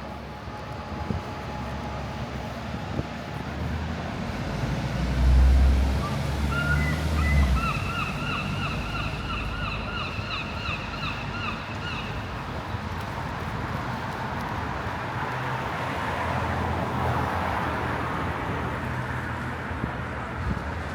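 Wet city street ambience: a steady hiss of rain and passing traffic, with wind buffeting the microphone in a heavy low rumble about five to seven seconds in. A rapid series of repeated high chirps runs for about five seconds in the middle.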